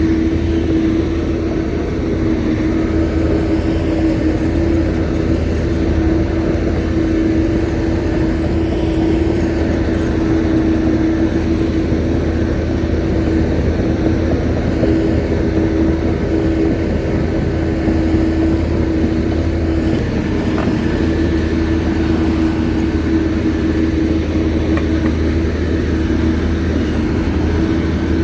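Shantui bulldozer's diesel engine running steadily under work, a low drone with a steady held tone above it.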